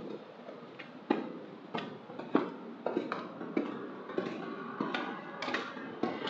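Footsteps, about ten sharp steps spaced roughly half a second apart.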